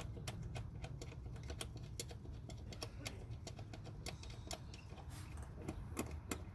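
Ratchet wrench clicking in quick, irregular strokes as a throttle-body mounting bolt is run in, over a low steady hum.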